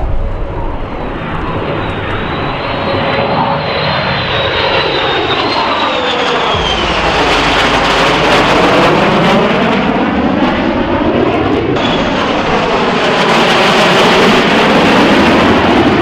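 Military jet aircraft flying low past the crowd: a loud engine roar that swells and sweeps in pitch as the jet goes by. There is a second pass after an abrupt change about twelve seconds in.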